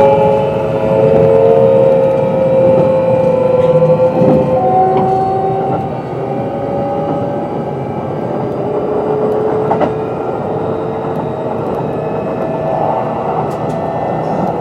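Kintetsu 22600 series electric train running, with the whine of its Mitsubishi IGBT-VVVF inverter and traction motors: several tones drifting slowly in pitch over the rumble of wheels on track. The sound is louder for the first six seconds, then settles lower, with an occasional faint click.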